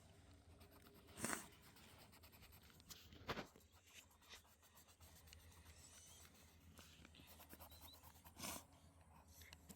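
A pencil scratching on paper in short strokes, three times, over a faint low hum.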